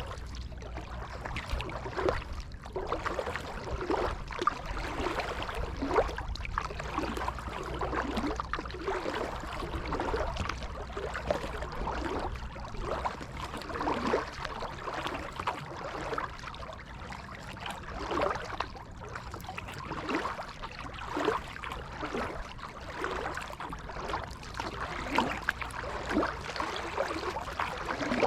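Kayak paddle strokes in creek water: a splash about every one to two seconds as the blades dip in alternately, with water trickling and dripping from the paddle in between.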